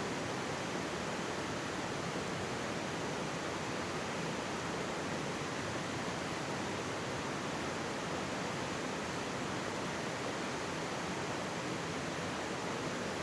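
Mountain stream rushing and babbling steadily, with no clear fire crackles standing out.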